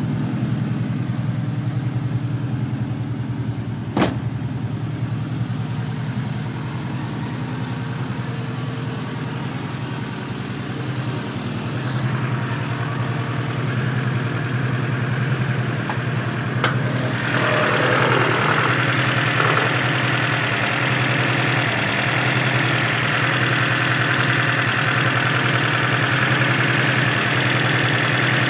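Honda K-series four-cylinder engine, naturally aspirated, idling steadily. There is a sharp click about four seconds in. From a little past halfway the idle turns louder and hissier, heard up close at the open engine bay.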